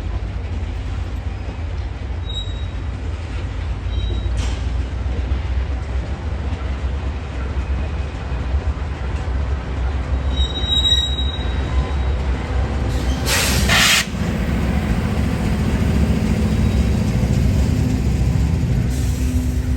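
Freight train rolling past trackside: a steady low rumble of wheels on rail with a few short, high wheel squeals. About two-thirds through there is a brief loud rush of noise, after which a steady low drone from the train joins the rumble.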